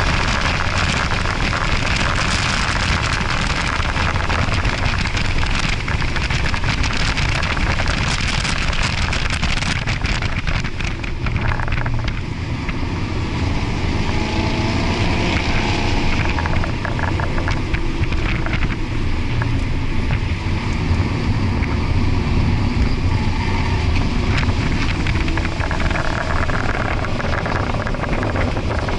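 Ford Focus RS's 2.3-litre turbocharged four-cylinder engine running under hard track driving, heard from inside the cabin with heavy road and wind noise. Its note rises and falls with the revs.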